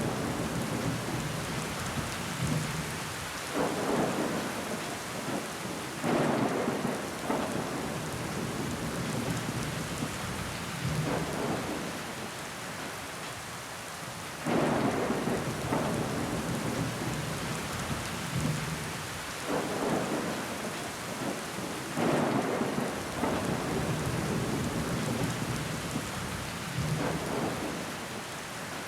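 Steady rain pattering against window glass, with water running down the pane. Every few seconds the sound swells abruptly and then fades back.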